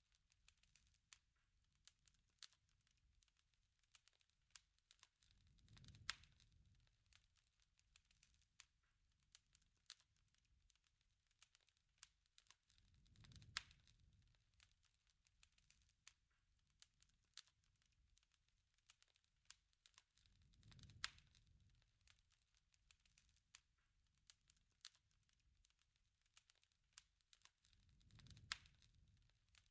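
Faint campfire crackling: frequent small snaps and pops from burning wood. About every seven and a half seconds a low whoosh of flame swells, topped by a louder pop, in an evenly repeating pattern.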